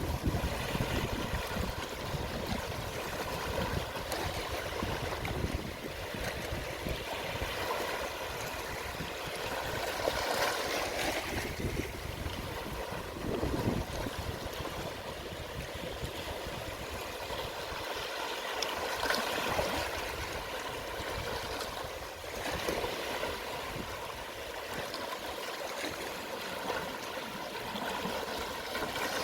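Small, gentle sea waves washing and trickling on the shore, a continuous wash that swells every few seconds as a wave comes in.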